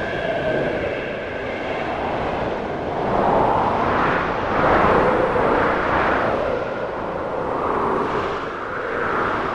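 Snowstorm wind howling in gusts, with whistling tones that rise and fall as it swells, strongest about halfway through.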